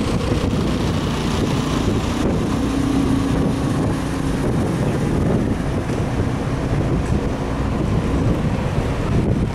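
Car driving slowly, with a steady engine and road rumble and wind noise on the microphone.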